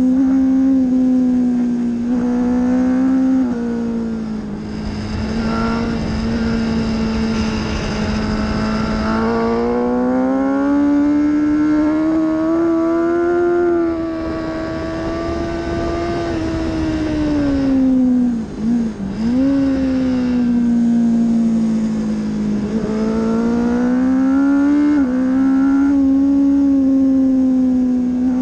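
Kawasaki ZX-10R inline-four sport bike engine running hard at high revs on track, its pitch rising on the straights and falling into corners, with a sudden dip and quick recovery about two-thirds through. Wind rush runs under the engine note.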